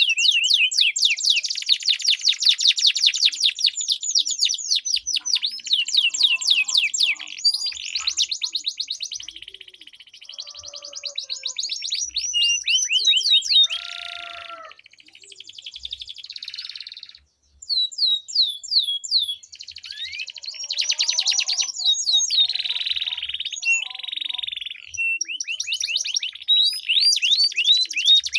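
Domestic canaries singing long, rapid rolling trills mixed with sweeping whistled notes, with a brief pause about 17 seconds in.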